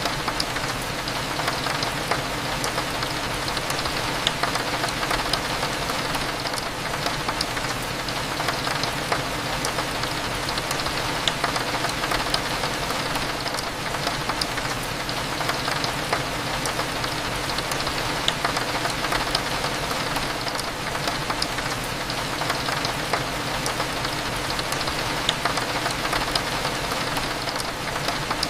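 Steady rain pattering on a window, over a low steady hum, with a few faint high ticks about every seven seconds.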